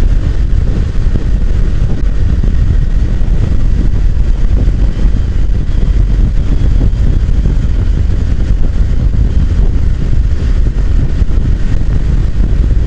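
Steady rush of wind and road noise while riding a motorcycle at speed, the low rumble of wind buffeting the microphone covering the engine.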